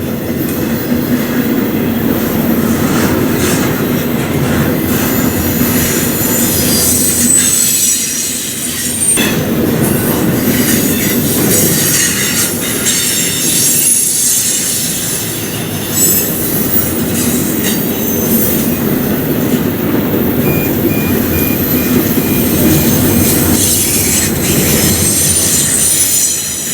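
Freight train cars rolling past at track level, steel wheels clicking over rail joints and squealing against the rails in a steady, loud stream of noise.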